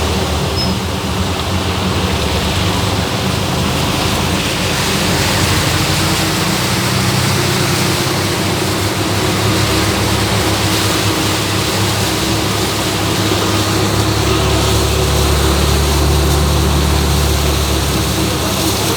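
Heavy rain and water on a flooded road, a steady loud noise, with a vehicle engine's low hum under it that swells from about 14 seconds in.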